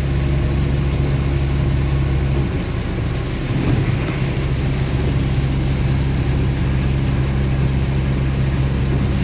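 Chevy S10 pickup's engine idling steadily with a low hum, rain hissing over it; the deepest part of the hum drops away about two and a half seconds in.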